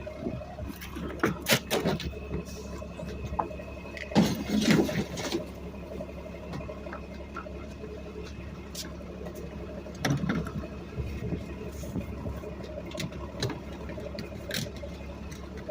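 Garbage truck engine running steadily, with scattered knocks and clatters over it, the loudest about four to five seconds in and again near ten seconds.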